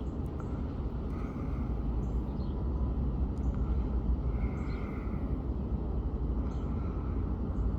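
Steady low outdoor rumble, with faint small ticks scattered through it.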